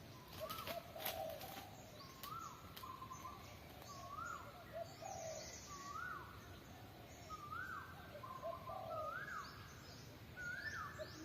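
A bird calling over and over, each call a short rising note that levels off, repeated roughly every second and a half, with faint higher chirps from other birds.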